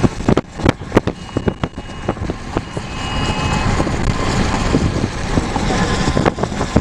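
Car road and engine noise heard from inside a moving car. Irregular sharp clicks and knocks come over the first two seconds or so, and the steady road noise then grows louder.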